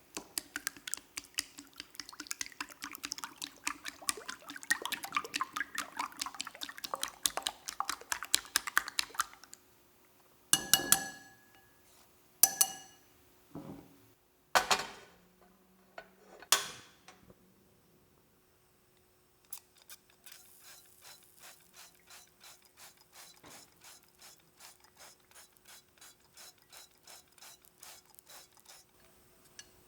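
Kitchen knife chopping rapidly on a cutting board, then a few separate knocks around the middle, then steady chopping at about three strokes a second.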